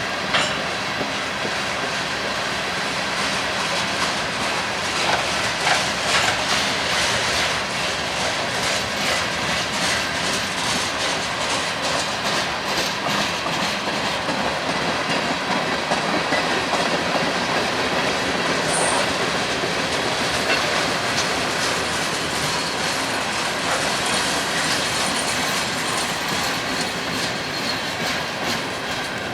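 Freight train's cars rolling past on a curve, wheels clicking steadily over the rail joints with some flange squeal.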